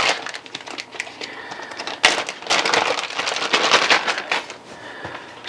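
Food wrapping crinkling and crackling as it is handled, with scattered clicks and a busier stretch in the middle.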